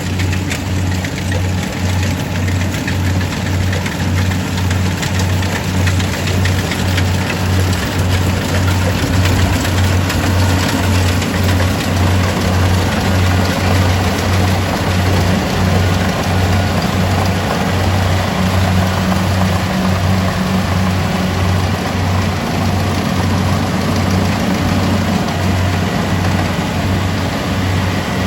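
Kubota DC-70G rice combine harvester running steadily, its engine giving a low throb that pulses about twice a second under a continuous machinery noise.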